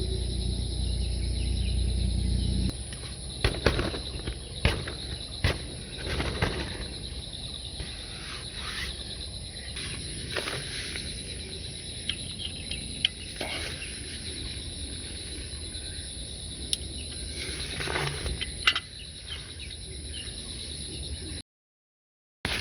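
Steady high-pitched insect chorus, with scattered sharp clicks and clatters and a low rumble during the first few seconds.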